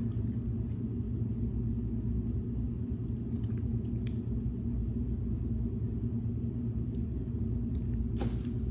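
Steady low rumble, with a few faint clicks about three and four seconds in.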